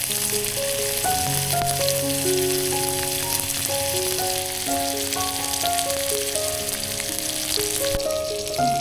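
Food sizzling in hot oil in a miniature pan, a steady crackling hiss, under background music with a melody of held notes.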